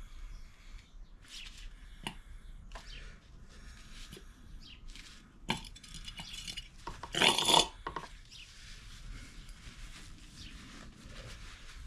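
Metal tools and parts clinking and rattling as they are handled on a garage bench, with one louder clatter of about half a second roughly seven seconds in.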